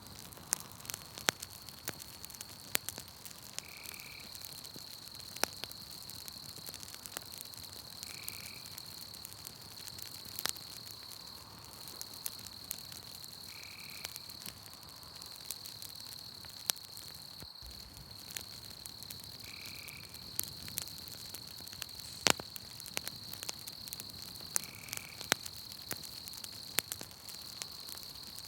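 Campfire crackling with sharp, irregular pops, over a steady high-pitched insect trill. A short call repeats about every five seconds.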